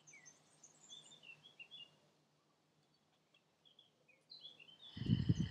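Small birds chirping faintly, many short high calls in scattered runs. About five seconds in, a brief low pulsing rumble comes in, louder than the birds.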